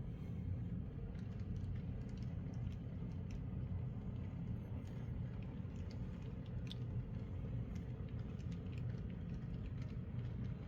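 Small N scale model locomotive mechanism (Atlas VO-1000 motor and gear drive) running steadily while moving a string of cars along the track, a little loud but smooth. Scattered light clicks of the wheels over the track are mixed in.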